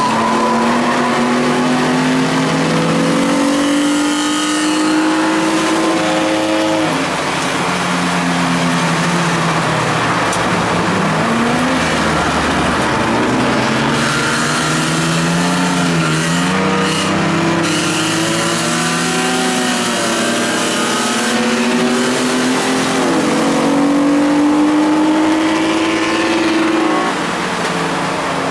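Ford Contour race car's engine heard from inside the cabin, pulling hard on track: its pitch climbs over several seconds and drops back about five times as it shifts and brakes, over steady wind and road noise.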